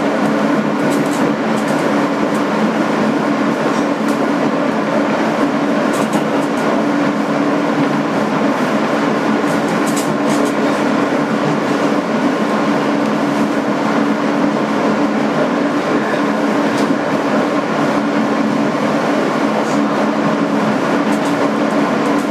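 2008 Kawasaki R160B subway car running between stations, heard from inside the car: a steady rumble of wheels on rail under a steady hum from its Alstom ONIX AC traction motors, with a few clicks here and there.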